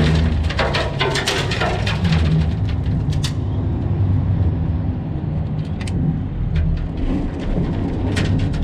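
Mack dump truck's diesel engine running steadily while a load of gravel pours out of the raised dump body with a rushing rattle of stones. The rattle dies down about three seconds in, leaving the engine and a few scattered clicks.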